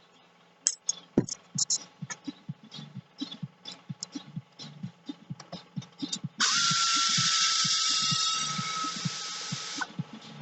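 Scattered clicks and clinks of tools on metal engine parts, then about six seconds in a power tool runs for about three and a half seconds, a steady whine over a loud hiss, while fasteners come off a Yamaha XLT jet-ski engine being taken apart.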